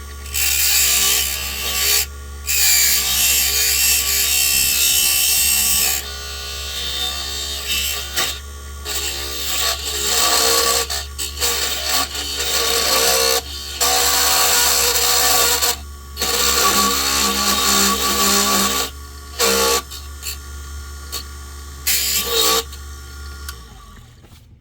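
Small wood lathe running with a steady motor hum while the spinning wooden lure blank is scraped and shaped, loud rough stretches broken by short pauses as the work is lifted off. The motor shuts off and the hum dies away near the end.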